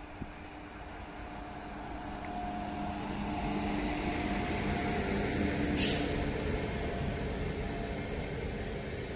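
Electric-hauled express train passing, the rumble of wheels on rail swelling as the locomotive and its coaches go by, with a steady hum from the locomotive. A brief sharp hiss stands out about six seconds in.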